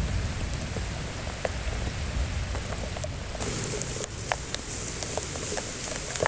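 Thunderstorm rain falling steadily, a hiss with many individual drops striking close by. About three and a half seconds in the sound changes abruptly and the hiss turns sharper.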